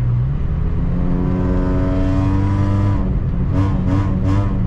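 Engine and road noise of a 2004 Honda Civic coupe cruising at highway speed, heard from inside, as other cars' engines pass: a pitched engine note swells about a second in and falls away near three seconds, and three short revving bursts come near the end.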